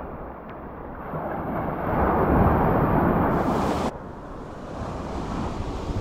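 Ocean waves washing in, with wind buffeting the microphone. A louder rush swells about two seconds in and cuts off abruptly near four seconds.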